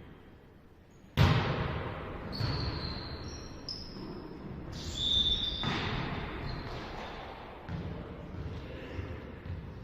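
Volleyball struck hard in an echoing sports hall, a sharp hit about a second in, followed by a few fainter ball hits and knocks, with several short high-pitched squeaks in between.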